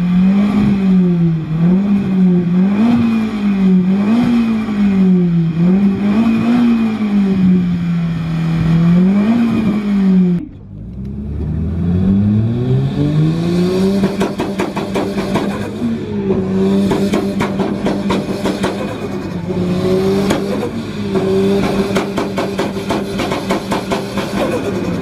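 Loud, modified car engine and exhaust revved hard in neutral, blipped up and down about eight times in quick succession. About ten seconds in, it drops off briefly, then climbs and is held at high revs with a rapid, even stutter of pops, like a car held on its rev limiter or two-step.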